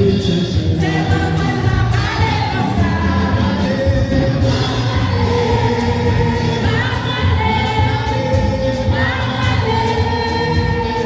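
A choir singing a church hymn over loud instrumental accompaniment with a heavy bass.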